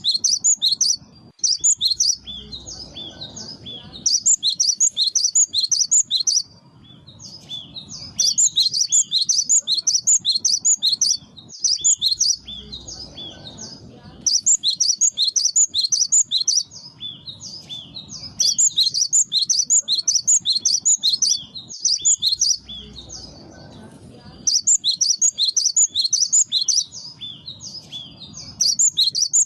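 Cinereous tit (gelatik batu) singing a lure song: bursts of rapid, high, repeated notes, each lasting a couple of seconds, separated by short pauses.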